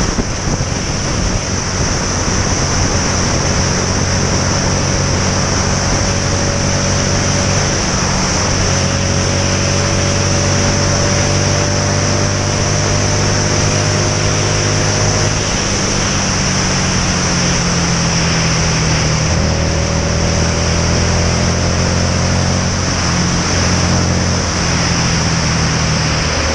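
Motorcycle engine running under heavy wind noise on the helmet-mounted camera's microphone. The engine note holds steady, then shifts pitch several times in the second half.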